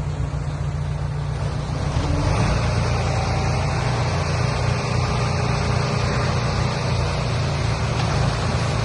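Heavy-equipment diesel engine running steadily with a deep hum, under a broad rushing noise that grows louder about two seconds in.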